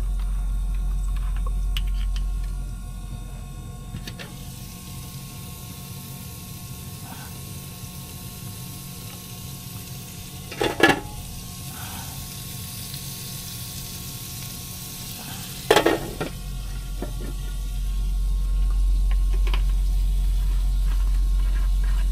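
Shrimp and broccoli sizzling as they fry in a pan, with two loud clatters of a utensil against the pan about halfway through and again some five seconds later. A low hum runs underneath, dropping away in the middle and returning near the end.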